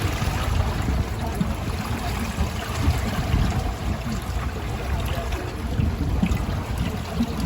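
Floodwater flowing steadily, an even rushing with a low rumble underneath.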